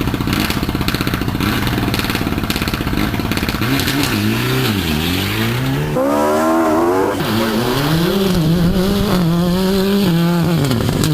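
Rally car engine revving hard: low and pulsing at first, then the pitch climbs and falls again and again with throttle and gear changes, with a sharp climb and drop a little past halfway.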